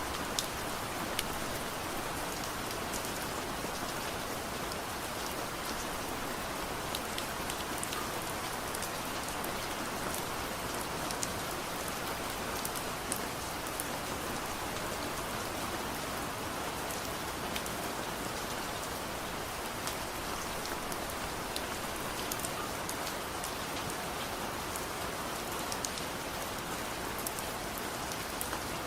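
Soft, steady rain: an even hiss, with many small sharp ticks scattered all through it.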